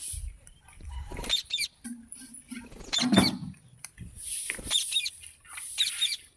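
Rose-ringed parakeet making short chirps and clicks, with scratching and rustling between them.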